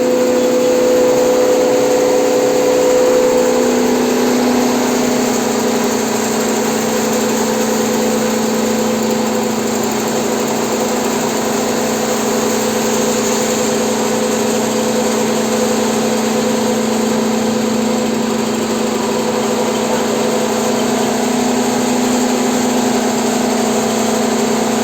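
Masala blower pulverizer running steadily: a constant motor-and-grinder hum with a broad whirring hiss, holding at one speed throughout.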